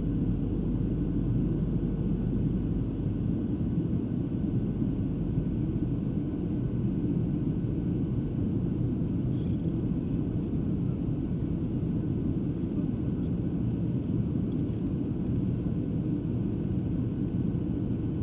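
Steady low rumble of an airliner in flight heard from inside the cabin: engine and airflow noise holding even throughout, with a few faint light ticks about halfway through.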